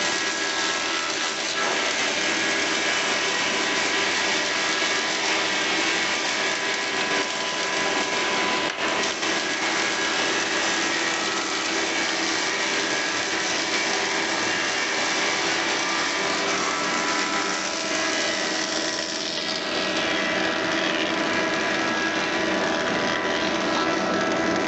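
Industrial double-sided thickness planer with helical cutterheads running steadily, a dense machine noise with several steady whining tones. There is one short click about nine seconds in, and the tones shift slightly a little past the middle.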